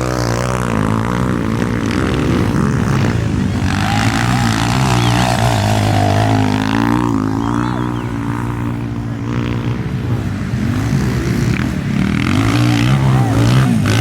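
Several motocross bike engines running together on the track, revving up and down, their pitch rising and falling as the riders accelerate and back off.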